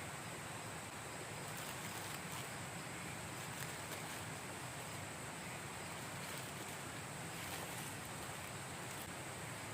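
Steady rushing of a forest river and wind, an even noise with no distinct events, with a faint steady high hiss over it.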